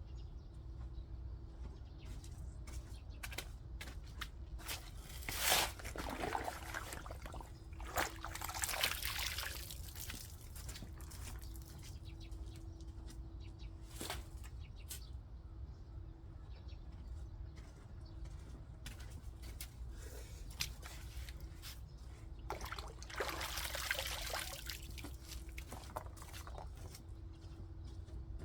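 Loose soil or granular material pouring and scattering in three short bursts, with scattered light clicks and knocks between them, over a steady low rumble and a faint steady hum.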